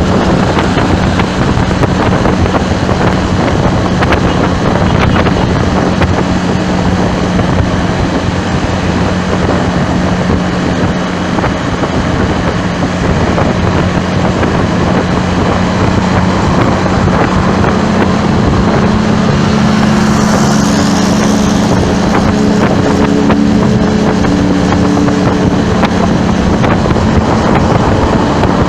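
Wind buffeting the microphone over the steady hum of traffic engines; about two-thirds of the way through, a second, higher engine note joins for several seconds.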